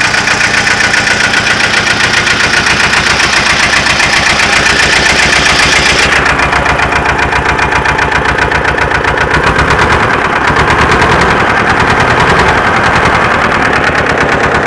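Ursus 335 tractor's diesel engine idling steadily after a cold start. An even pulse runs all through, and a high hiss drops away suddenly about six seconds in.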